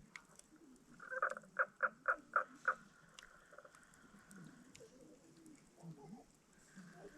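An animal calling in a quick run of about six evenly spaced notes a little over a second in, with faint scattered clicks from the campfire underneath.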